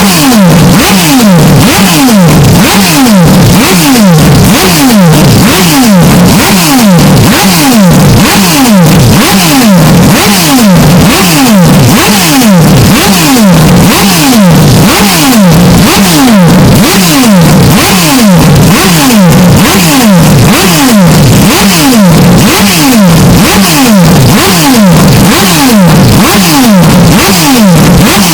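Historic Group C race car engine sound, heavily distorted and clipped, made of a rapid run of falling pitch sweeps like repeated flybys. The sweeps repeat in an even pattern about every two seconds.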